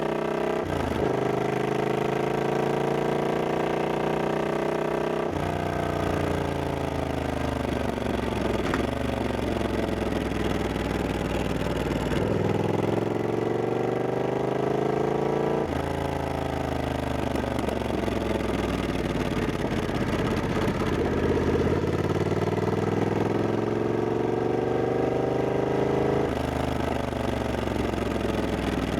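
Triumph Scrambler 1200X's 1200 cc parallel-twin engine heard from on board while riding, its pitch gliding up and down with sudden jumps several times as the rider shifts gears and rolls on and off the throttle.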